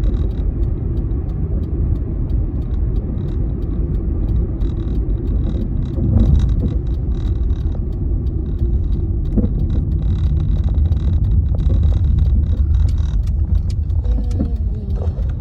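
Car's cabin noise while driving: steady low road and engine rumble heard from inside the car, with a few faint clicks.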